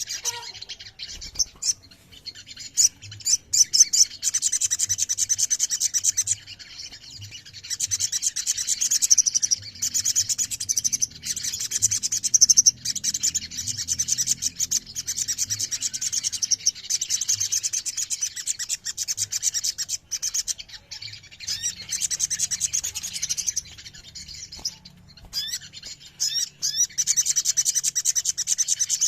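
Several Javan tesias (sogon) singing together: long, rapid, high-pitched trills that overlap into a continuous chorus, broken by a few short pauses.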